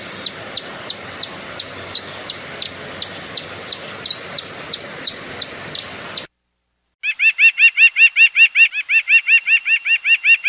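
Birds chirping in two separate sound-effect clips. First, a bird repeats short, high, falling chirps about three times a second over a faint background hiss. After a brief gap, a louder, lower-pitched call repeats quickly, about four times a second.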